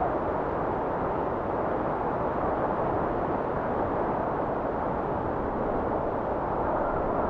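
Steady blizzard wind: an even noise, strongest in the middle range, with no gusts or breaks.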